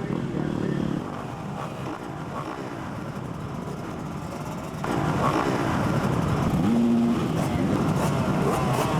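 Motocross bike engines revving, their pitch rising and falling as the throttle is worked. The sound changes abruptly about a second in and again near five seconds in, dropping quieter and then louder.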